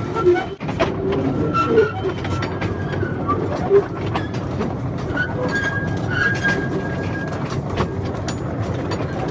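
Small tourist train running along its track: a steady rumble from the riding cars with frequent clicks of the wheels over the rails.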